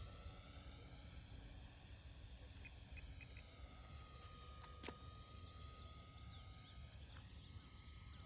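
Faint, distant hum of a radio-controlled Cessna 182 model plane in flight, its pitch dipping and then rising again as it flies around. A single sharp click comes about five seconds in.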